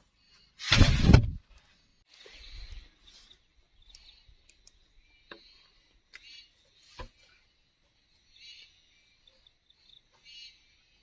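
Insects and birds chirping in short, repeated pulsing calls, with one loud sudden clatter about a second in and a few sharp knocks later.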